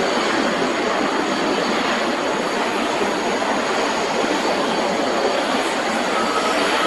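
Jet engines of a Japan Airlines Boeing 787-8 airliner, a loud steady rushing noise with no change in pitch or level.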